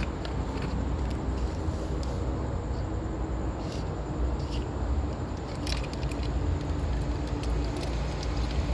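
Steady low mechanical rumble like vehicle engines, with a few light metallic clicks about four and six seconds in.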